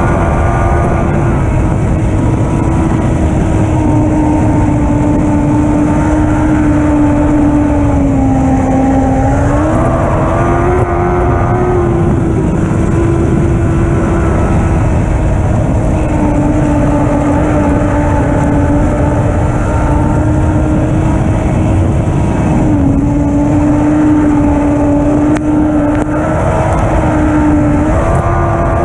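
Lightning sprint car engine running at high, fairly steady revs over loud low rumble, its pitch dipping briefly twice and climbing back.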